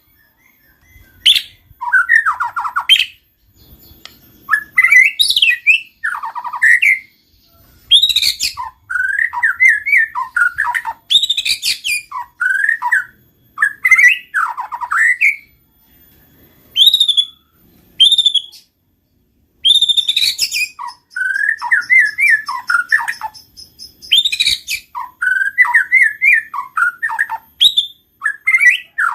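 White-rumped shama singing loudly and continuously, in short varied phrases of rich gliding whistles and chattering notes separated by brief pauses. A canary's fainter, fast, even trill runs in the background for a few seconds past the middle.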